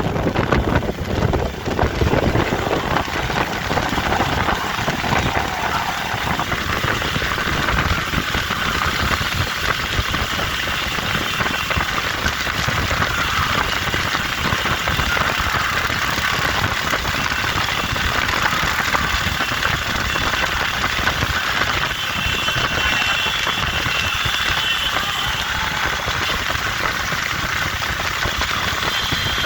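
An engine running steadily, with faint high tones coming in over it in the last third.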